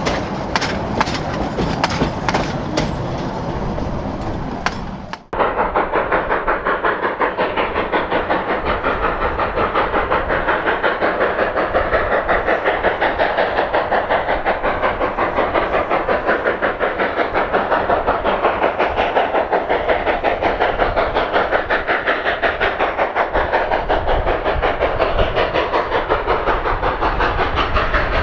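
Narrow-gauge steam train under way. After a cut about five seconds in, a fast, even rhythm of beats runs steadily.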